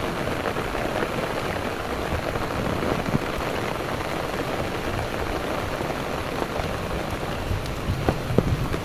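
Heavy rain falling steadily, an even dense hiss, with a few sharper drops splashing near the end.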